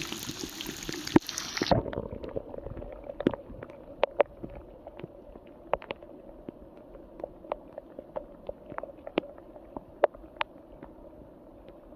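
Rushing water noise that cuts off abruptly about two seconds in. Then comes a quieter, muffled stretch of scattered, irregular drips of water.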